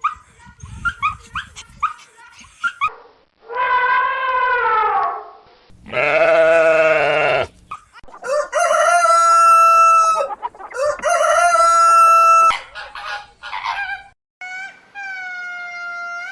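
A rooster crowing repeatedly, with about five long crows in a row, preceded by quick short clucks and chirps from chickens in the first few seconds.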